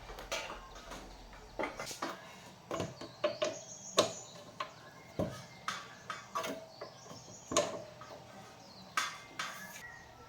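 Irregular metallic clinks and knocks of hand tools and small metal parts being handled and set down, some strikes ringing briefly, with the sharpest knocks about four seconds in and again near eight seconds.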